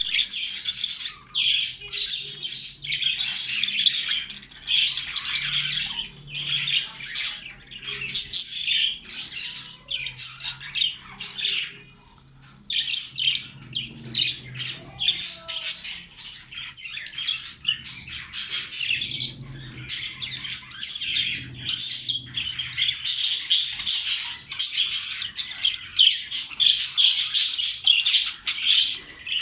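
Budgerigars chattering in rapid, high-pitched squawks, nearly continuous with a short lull about twelve seconds in.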